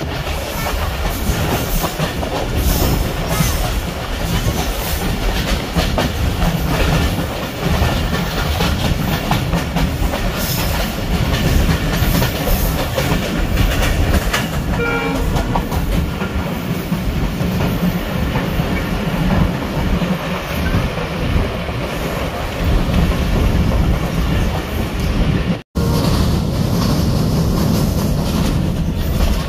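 Passenger train running along the track, heard from on board: a steady loud rumble with the clickety-clack of wheels over the rail joints. A short high tone sounds about halfway through, and the sound cuts out for an instant near the end.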